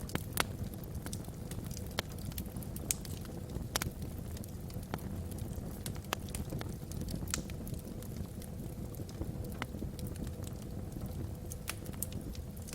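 Wood fire burning in a fireplace: irregular sharp crackles and pops over a steady low rumble of flame and wind.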